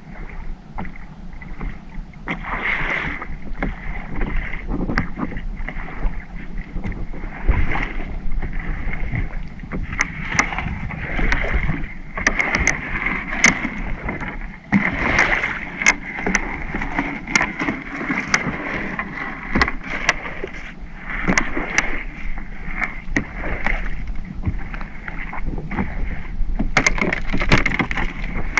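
Small fishing boat at sea during crab-net work, with a steady running noise and wind and water, and many irregular sharp clicks and knocks of gear being handled on deck.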